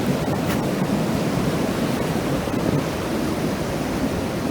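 Ocean surf breaking on a beach: a steady, loud wash of waves.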